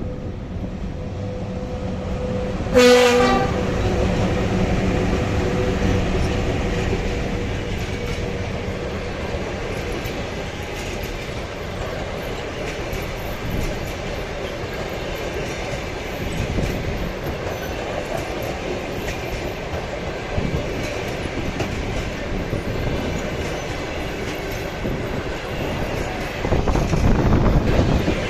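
VL80S AC electric locomotive sounds one short horn blast about three seconds in, then the train pulls away with steady rolling noise and wheels clicking over the rail joints, growing louder near the end.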